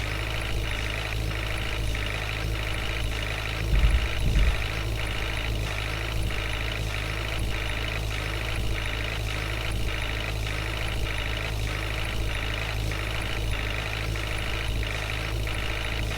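Heavy diesel engine of a tractor or backhoe loader running steadily, with a tone pulsing on and off about twice a second like a reversing alarm. A brief loud low thump comes about four seconds in.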